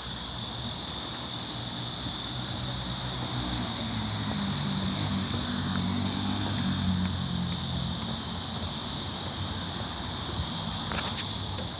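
A steady high-pitched insect chorus drones throughout. A low engine hum swells in the middle and fades away, as a vehicle or aircraft passes.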